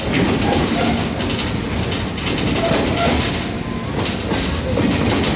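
Passenger train rolling steadily along the track, the continuous rumble and clatter of its wheels on the rails heard from aboard an open car.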